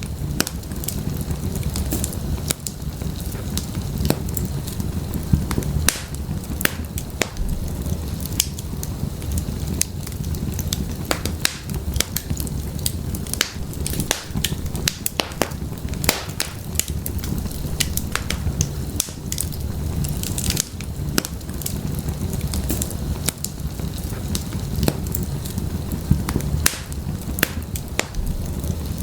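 Wood fire crackling in a fireplace: a steady low rumble of flame with frequent sharp pops and snaps at irregular intervals.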